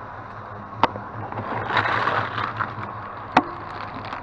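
Salvaged items being handled and loaded into a truck: two sharp knocks about two and a half seconds apart, with rustling and shuffling of objects between them, over a low steady hum.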